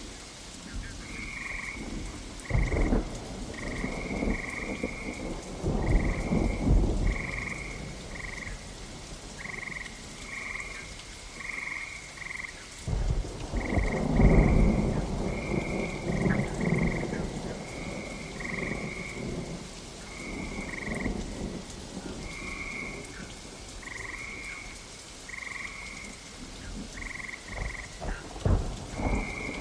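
Steady rain with frogs calling throughout in short, high-pitched croaks, one or two a second. Rolls of thunder rumble several times, the longest and loudest about halfway through.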